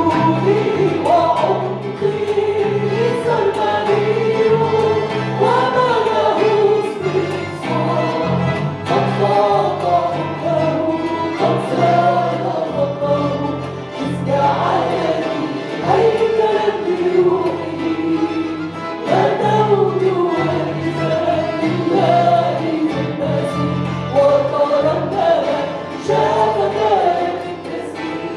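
Christian worship music: a group of voices singing a hymn over instrumental accompaniment with sustained bass chords.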